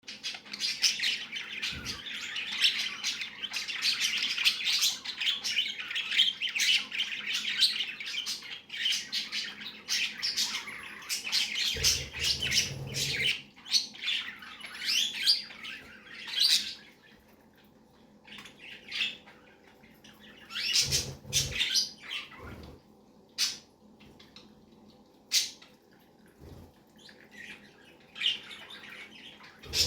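Male budgerigar chattering and warbling: a dense run of quick chirps through the first half, then scattered single chirps and clicks. A few brief low thumps come about twelve and twenty-one seconds in.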